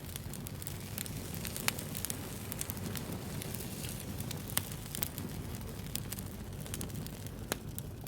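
Wood fire crackling with frequent small pops over a soft steady low noise. Three sharper pops stand out, about two, four and a half, and seven and a half seconds in.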